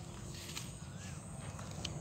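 A bird's short rising-and-falling whistled call, repeated about once a second, over a low rumble of outdoor noise.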